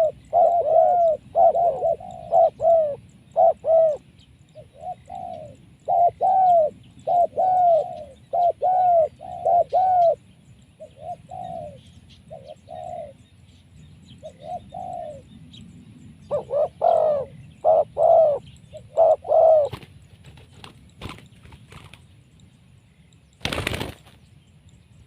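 Spotted dove (tekukur) cooing in repeated runs of short, arched coos, with brief pauses between phrases. The cooing stops about 20 s in. A short, loud burst of noise comes near the end.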